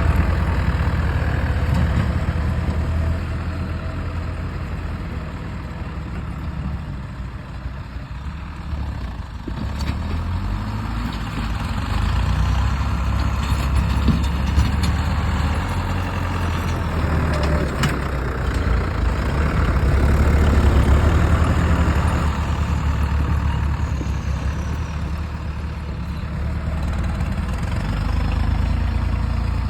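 Tractor diesel engine running continuously, its level rising and falling as the tractor works, loudest a little past the middle.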